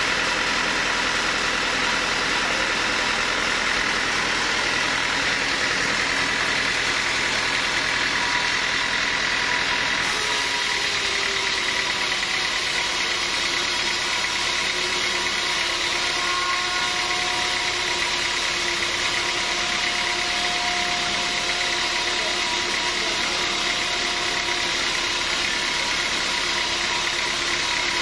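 Sawmill machinery running steadily with a motor-like drone. The sound changes abruptly about ten seconds in and then carries on steadily.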